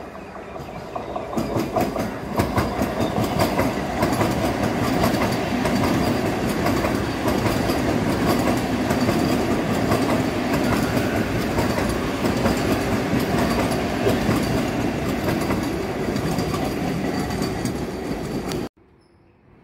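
Vande Bharat Express electric train set passing at speed close by. Its noise builds over the first couple of seconds, then holds as a loud, steady rush with wheels clattering over the rail joints as the coaches go by, and stops abruptly near the end.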